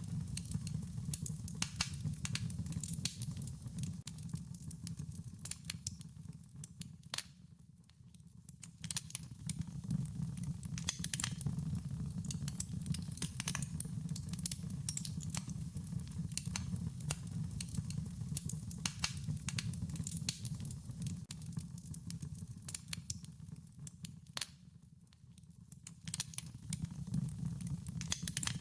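Wood fire crackling and popping with many small irregular snaps over a low steady rumble of flames. It dips quieter briefly twice.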